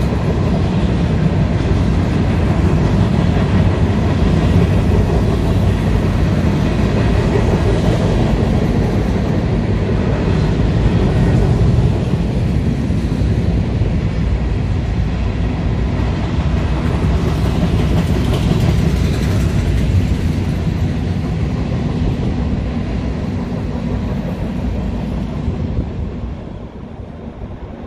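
CSX freight train rolling past trackside: a loud, steady rumble and clatter of railcar wheels on the rails. It fades gradually and drops off sharply near the end.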